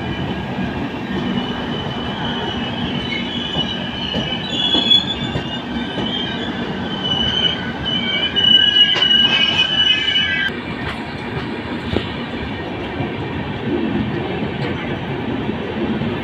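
Passenger train coaches rolling past close by with a steady rumble of wheels on rail. A high metallic wheel squeal of several pitches sets in about a second in and cuts off about ten seconds in.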